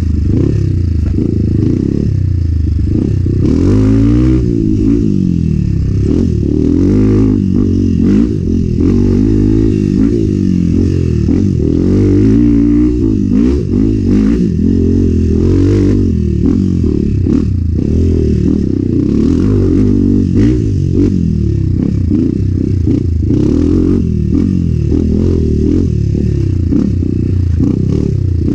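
Enduro motorcycle engine revving up and down over and over as it is ridden hard off-road, with frequent clattering knocks and scrapes from the bike over rough ground.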